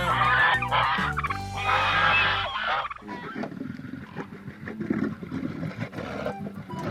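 Farm fowl calling: loud calls for the first two and a half seconds, then quieter, rougher calls.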